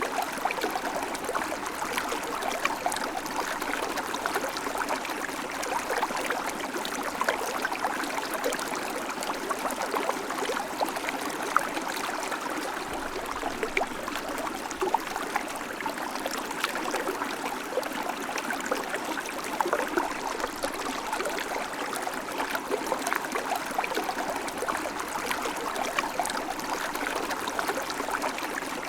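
River flowing steadily, a continuous rushing with fine trickling and splashing over stones.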